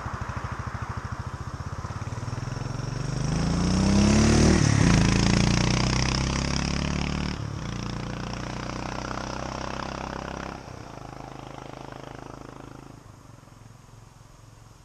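A Royal Enfield C5's 500 cc single-cylinder engine thumping past: it grows louder as the motorcycle approaches, passes about four to five seconds in with its pitch dropping, then fades away into the distance.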